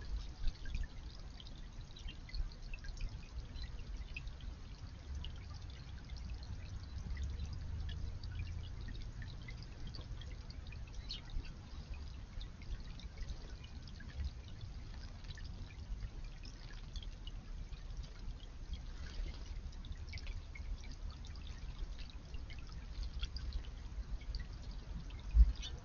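Water trickling and pouring steadily into a garden pond, with scattered small drips and splashes throughout. There is a low rumble underneath and a single sharp thump near the end.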